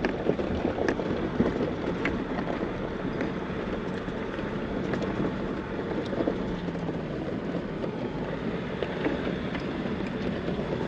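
Off-road vehicle driving slowly over a rough dirt mountain trail, heard from inside the cabin: steady engine and tyre rumble with scattered small knocks and rattles. The engine note falls slightly about six seconds in.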